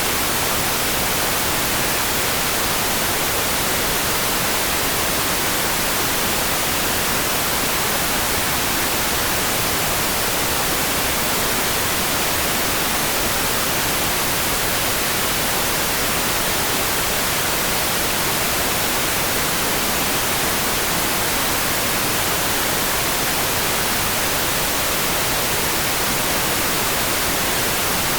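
Steady rain, heard as an even, unbroken hiss with no single drops standing out.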